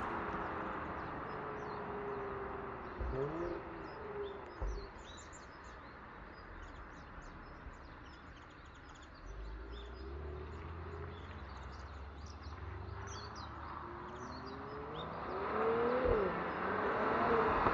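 Outdoor ambience: small birds chirping throughout over passing traffic, which fades in the first few seconds and swells again near the end. A low engine rumble comes in about halfway.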